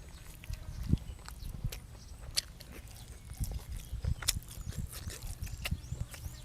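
A person chewing food close to the microphone: irregular wet mouth clicks and lip smacks over soft low thuds.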